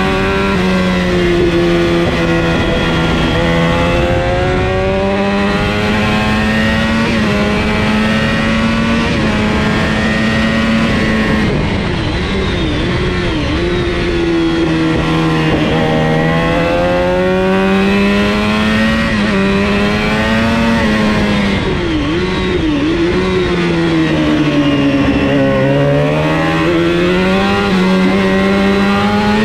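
Engine of a 400 Supersport racing motorcycle at racing speed, heard from an onboard camera behind the fairing screen, its pitch climbing and falling again and again as the rider accelerates and backs off, with a few short quick dips in pitch, over steady wind rush.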